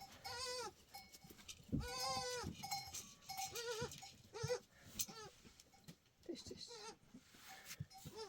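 Goats bleating: a string of about six wavering calls, the loudest and longest about two seconds in, fainter ones toward the end.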